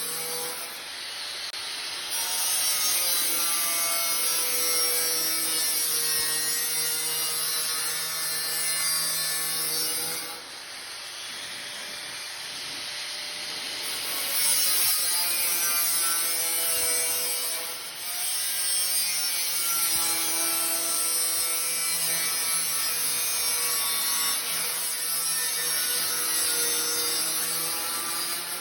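Angle grinder running with a steady motor whine, cutting in long passes with a harsh hiss. The cutting eases for a few seconds about a third of the way in and briefly again later, then resumes.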